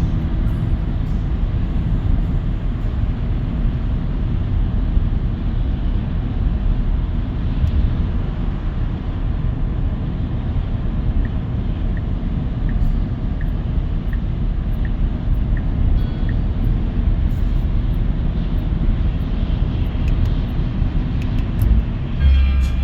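Steady tyre and road noise inside the Cybertruck's cabin on a wet highway, a low even rumble with no engine sound. A faint regular ticking runs for about five seconds midway.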